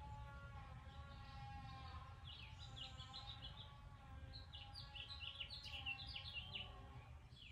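Faint bird chirps in two quick flurries, one about two seconds in and another from about four and a half to seven seconds, over a steady droning hum and a low background noise.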